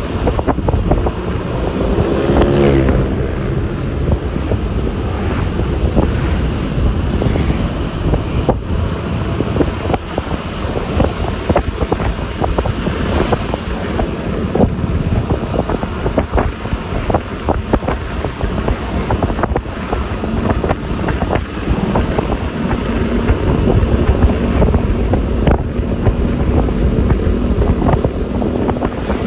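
Wind buffeting the microphone over the steady running of a Yamaha Lexi LX 155 scooter's single-cylinder engine and road noise while riding in traffic. About two seconds in, another engine rises briefly in pitch as it passes.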